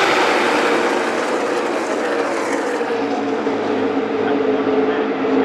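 A pack of NASCAR Cup stock cars' V8 engines at full throttle passing the grandstand, their engine note dropping in pitch as they go by, then a steady engine drone from the field for the rest of the time.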